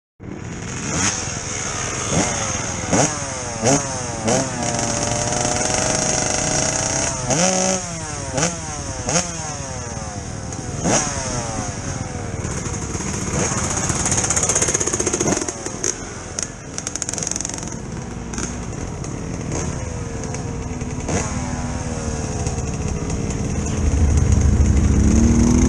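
Dirt bike engines revving in repeated throttle blips, pitch jumping up and falling back again and again, with a few seconds of steady running in between.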